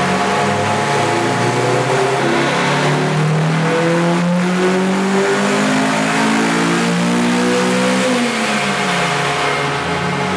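Honda Civic Type R EP3's K20 four-cylinder at full throttle on a chassis dyno: the engine pitch climbs steadily for about eight seconds, then drops as the throttle is lifted near the end.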